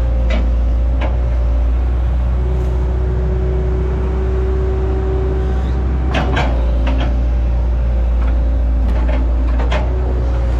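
Hitachi Zaxis 110 excavator's diesel engine running steadily, with a steady whine for about three seconds and several sharp knocks, a cluster of them about six seconds in.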